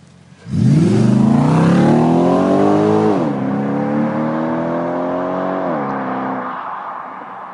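Audi S5 with a custom Milltek exhaust accelerating hard at full throttle from a standstill. The engine note climbs steeply, drops sharply at an upshift about three seconds in, climbs again and drops at a second upshift near six seconds, then fades as the car pulls away.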